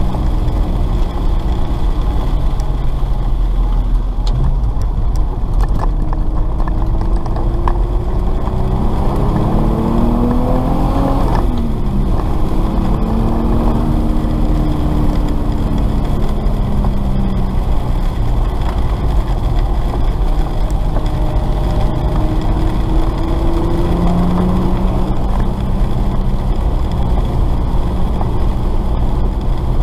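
Car engine heard from inside the cabin on a wet track. Its pitch climbs for several seconds, drops sharply about a third of the way in as at a gear change, then runs on steadier and slowly falling, over a constant rumble and hiss of tyres on wet tarmac.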